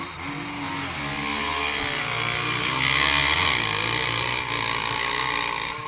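Motorcycle engine running, its pitch wavering up and down; it grows louder over the first three seconds and then holds.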